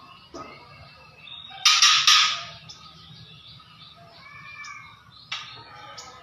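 Juvenile white-rumped shama giving a fierce, harsh rattling 'kretek' call: one loud burst about a second and a half in, lasting about a second, with a short sharp call near the start and another near the end, and softer warbled notes between them.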